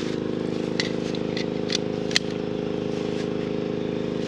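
An engine running at a steady idle, with a few faint sharp clicks in the first half.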